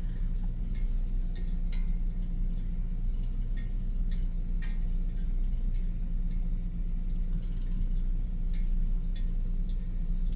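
Steady low rumble of a car running, heard from inside the cabin, with a low hum and scattered light ticks.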